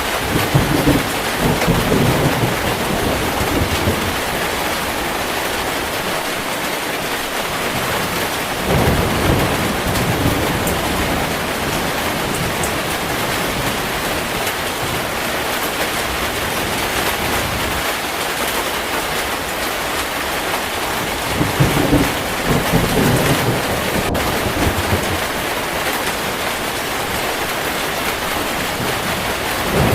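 Heavy rain falling steadily, with low rolls of thunder rumbling in three times: at the start, about nine seconds in, and about twenty-two seconds in.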